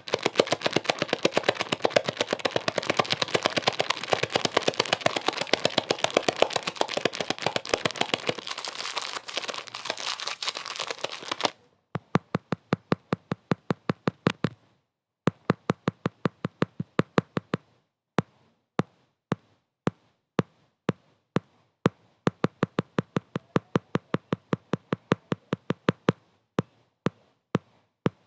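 Rapid sharp taps: very dense over a hiss for the first eleven seconds or so, then stopping abruptly and going on as separate taps, a few a second, that grow sparser with brief pauses.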